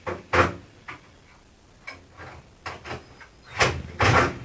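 A series of irregular knocks and clunks, about seven in all, with the loudest near the end. No saw is running.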